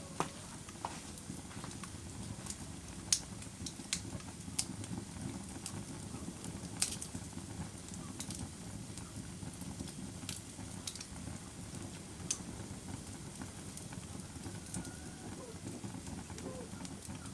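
Wood fire burning in a fireplace, crackling: irregular sharp pops and snaps over the steady low rush of the flames.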